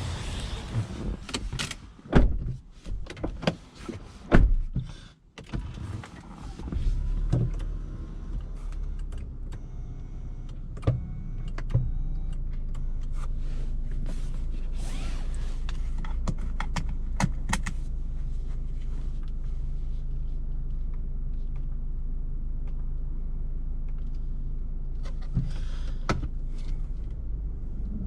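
Clicks and knocks of controls and doors inside a Lexus RX 200t. About seven seconds in, a low, steady hum from its 2.0-litre turbocharged four-cylinder engine sets in and carries on evenly at idle, with a few more clicks over it.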